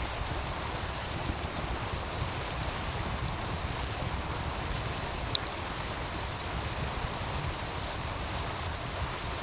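Steady rush of a meltwater stream with a wood fire crackling over it in scattered sharp pops, one louder pop about five seconds in.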